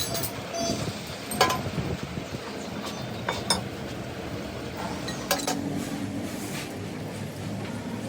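Metal tools or parts clinking against metal: about four sharp clinks a second or two apart, some briefly ringing, over steady background noise.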